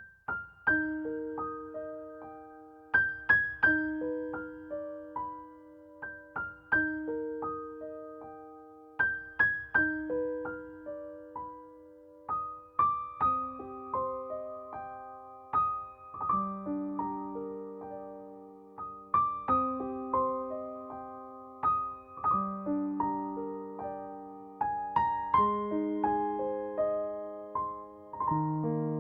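Background music: a soft, slow solo piano playing gentle arpeggiated chords, each note struck and left to fade.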